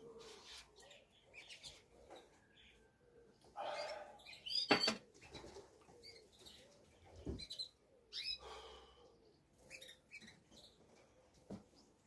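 Pigeons at a loft: wings flapping in short bursts, with scattered chirps and soft calls. A sharp click a little before five seconds in is the loudest sound.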